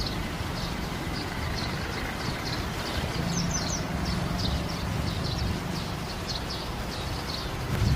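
Small birds chirping, short high notes repeating two or three times a second, with a few higher sweeping notes about halfway through, over a steady low rumble.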